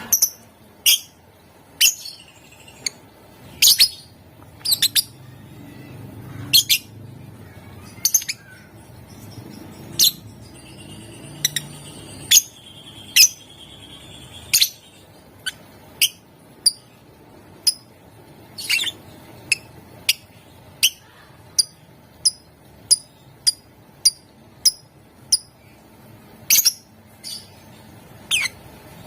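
Lovebird giving sharp, shrill chirps one at a time, irregularly spaced at first, then settling into a steady run of about two chirps a second in the second half.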